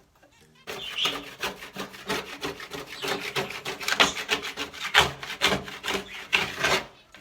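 Droppings being scraped off a budgie cage bottom with a plastic key card: rapid, repeated rasping strokes that start about a second in.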